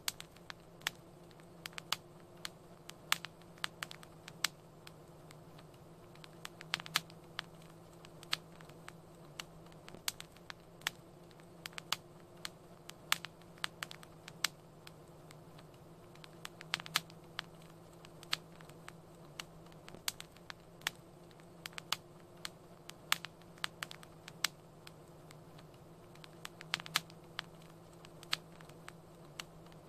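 Fireplace fire crackling: irregular sharp pops and snaps, several a second, over a steady low hum.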